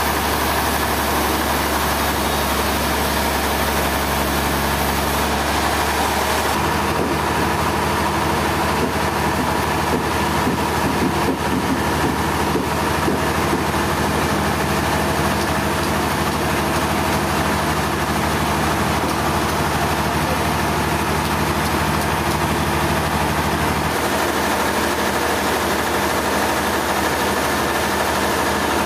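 Sawmill machinery running steadily: a constant engine drone with a steady mid-pitched tone. Its low hum shifts about six seconds in and again near the end.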